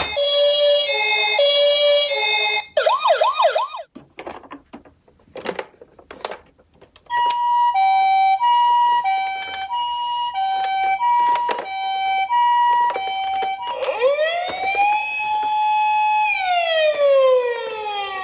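Toy ambulance minicars' electronic sirens: a two-tone hi-lo siren, a short fast warble about three seconds in, then a few seconds of small plastic clicks and knocks, then a higher two-tone siren, and near the end a slow rising and falling wail.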